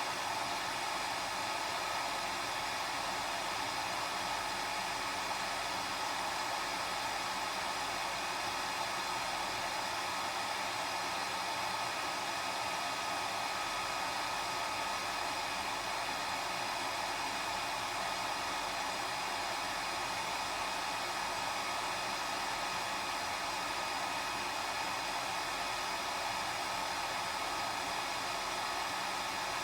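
Hair dryer running steadily, a constant blowing hiss with a faint motor whine and no change in speed.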